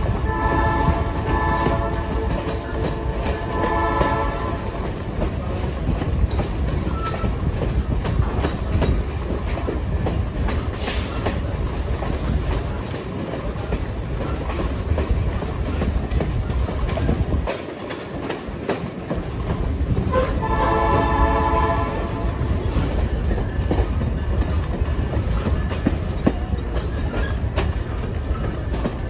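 Passenger train rolling along the track with a steady rumble of wheels on rail. The locomotive's multi-tone air horn sounds in a few blasts near the start and once more about 20 seconds in.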